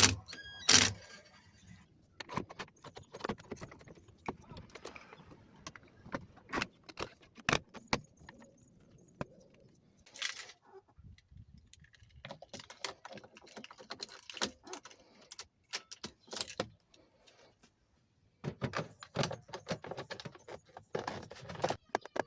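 Keys jangling, with irregular metallic and plastic clicks and rattles of hand work on a vehicle's steering column. A short electronic chime sounds at the very start.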